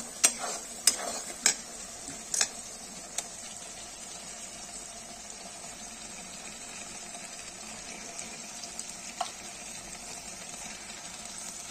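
Raw chicken pieces in hot oil and masala in a metal kadai, sizzling steadily. There are a few sharp clacks in the first three seconds and one more later.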